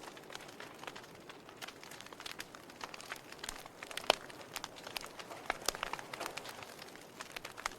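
Wood fire burning in a fireplace: irregular crackles and sharp pops over a soft steady hiss, with one louder pop about four seconds in.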